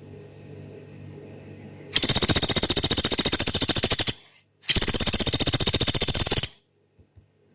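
Pelatuk beras, a small woodpecker, giving two long, rapid, harsh rattling calls of about two seconds each, one right after the other, the second following a short pause. A faint low hum lies under the quiet stretches.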